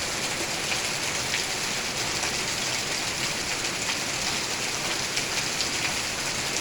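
Steady rain falling: an even hiss with many small drop ticks pattering through it.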